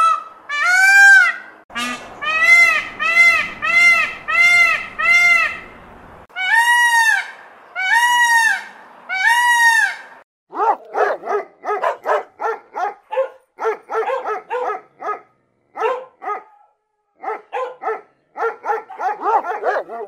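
Indian peacock calling: loud, wailing honks, each rising and falling in pitch, first a quick run of about six short calls, then three longer ones. About ten seconds in, a dog takes over with a long, uneven run of short yips and woos.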